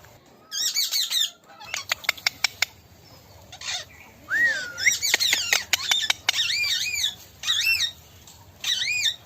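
Parrots screeching in repeated short bursts of harsh, wavering calls, with one rising-and-falling whistle about four seconds in. Runs of sharp clicks come between the calls about two seconds in and again around five to six seconds in.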